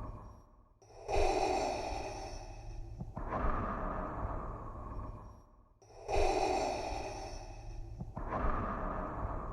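Darth Vader's mechanical respirator breathing: a slow, rasping in-and-out breath through the mask, repeating about every five seconds. Each cycle has a brighter, hissier half and a duller half, with a brief pause between cycles, and there are about two full cycles.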